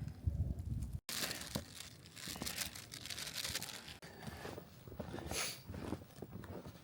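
Crinkling, crunching handling noise with many small clicks, as a trail camera is set up and fastened in the snow.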